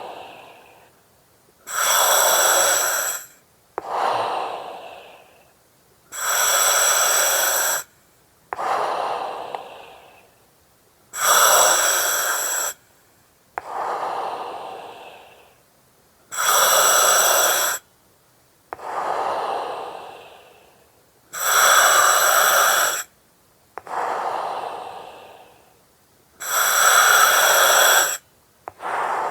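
Slow, steady breathing through an oxygen mask, about one breath every five seconds. Each cycle is a hard-edged hiss with a whistly edge, followed by a softer breath that fades away.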